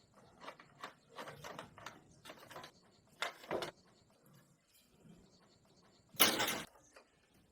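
Irregular clinks, knocks and scrapes of metal motorcycle parts and hand tools being handled during disassembly, with one louder scrape a little over six seconds in.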